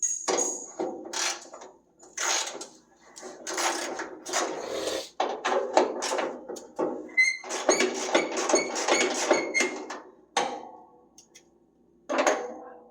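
A run of knocks, clanks and scrapes from hand tools and metal parts being worked on an old pickup, with a denser rattling stretch with some ringing about halfway through.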